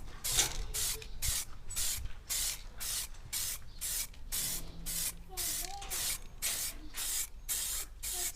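Clear lacquer being sprayed onto a sanded plastic headlight lens, in quick short hissing bursts about two to three times a second.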